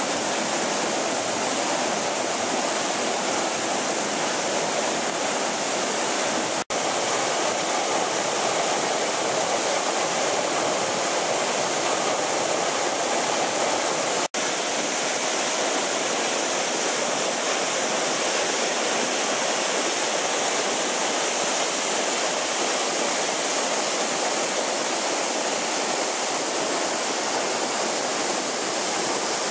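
Steinsdalsfossen waterfall: a steady, unbroken rush of falling water, with two momentary dropouts in the sound about 7 and 14 seconds in.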